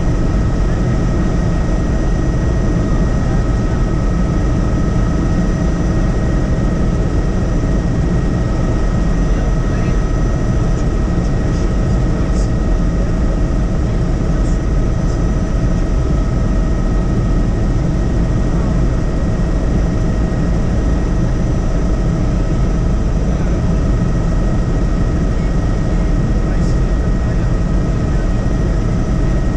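Helicopter in flight, heard from inside the cabin: a steady rotor and engine rumble with a thin, steady whine over it.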